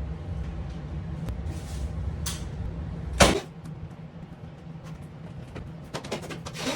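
A cupboard door shutting with one loud knock about three seconds in, over a steady low hum that stops with it; a few lighter clicks and knocks follow near the end.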